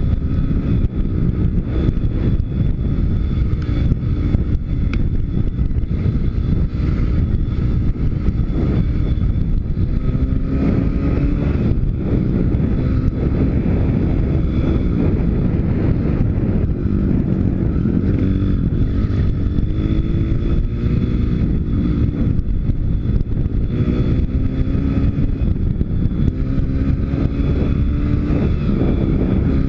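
Pit bike's YX 160 cc single-cylinder four-stroke engine under way, its pitch repeatedly climbing and dropping as the throttle is opened and closed, with wind rumbling on the microphone.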